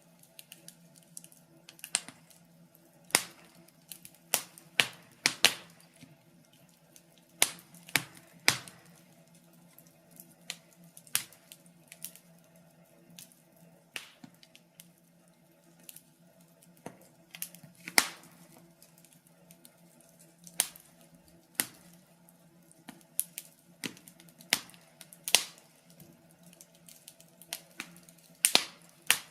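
Wood fire in a fireplace crackling: irregular sharp pops and snaps, some loud and some faint, over a faint steady hum.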